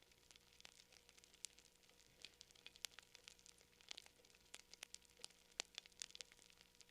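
Campfire crackling quietly: wood burning with frequent irregular sharp pops and snaps, several a second, over a faint hiss.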